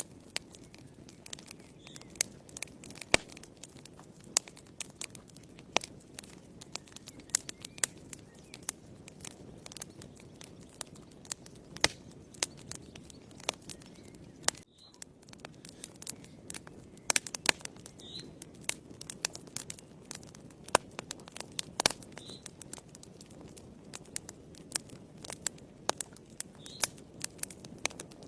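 Wood fire burning in a fireplace: irregular sharp crackles and pops over a low, steady rush of the flames.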